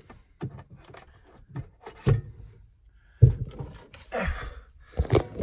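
Scattered knocks and clunks of parts being handled and fitted, with a loud thump a bit after three seconds in and a brief scraping rustle around four seconds.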